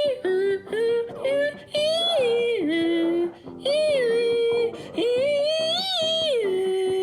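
A voice sings a melody in short phrases that slide up and down in pitch and hold their notes, over quieter backing music.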